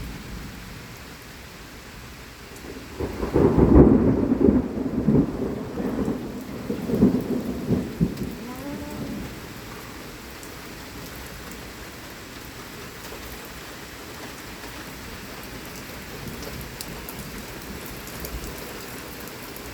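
Heavy rain falling steadily, with a loud clap of thunder about three seconds in. The thunder rumbles on in several sharp peaks for some six seconds before dying back into the rain.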